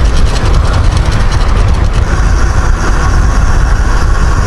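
Wind and road rumble from riding a bicycle, with a rapid, even clicking from the bike's drivetrain for the first couple of seconds.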